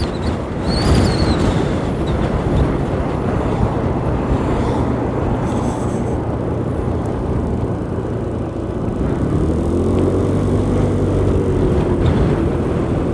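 A 125cc learner motorcycle running at road speed, its engine hum under a steady rush of wind and road noise. About ten seconds in, an engine note swells and falls away again.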